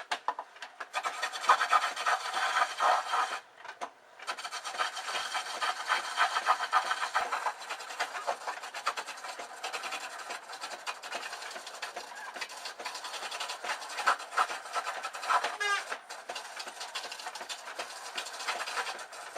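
Roughing gouge cutting into wood spinning on a foot-powered treadle lathe: continuous rough scraping as shavings come off. There is a short break in the cut about three and a half seconds in.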